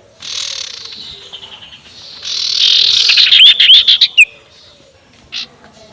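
Sirtu bird's 'ngekek' cackling call, a harsh buzzy chatter in two runs. The louder second run comes about two seconds in and ends in a quick string of hooked notes, with a short burst near the end. This is the call used as a lure to provoke rival birds.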